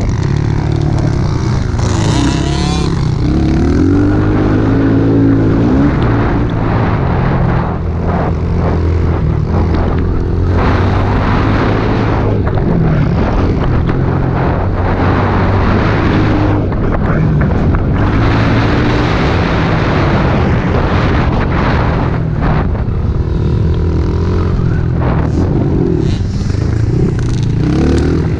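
Small pit bike engines running and revving, their pitch rising and falling again and again as the riders open and close the throttle.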